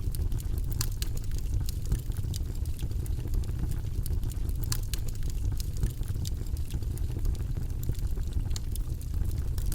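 Campfire crackling: a steady low rumble of the flames with irregular sharp pops and snaps scattered throughout.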